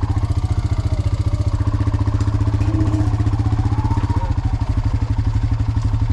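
Honda four-wheeler (ATV) engine running steadily at low speed, with an even, fast firing beat.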